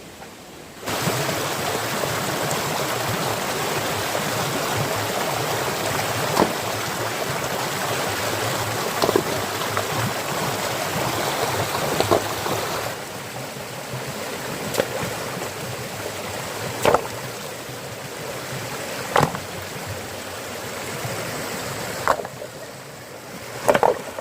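Steady rush of fast-flowing stream water that starts abruptly about a second in and gets softer about halfway through. Short sharp knocks come every two to three seconds.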